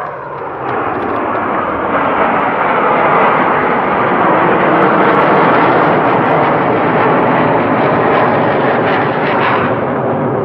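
Military jet aircraft flying past, a loud, steady engine roar that builds over the first couple of seconds, holds, and eases off near the end.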